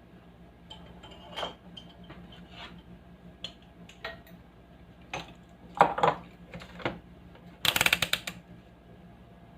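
Scattered clicks and knocks of small hard parts being handled, with a quick ratchet-like rattle of clicks about eight seconds in, over a faint steady low hum.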